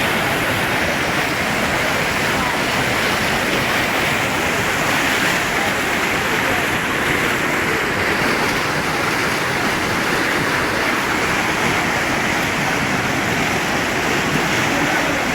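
Floodwater from a burst dam rushing past in a steady, loud, unbroken wash of noise.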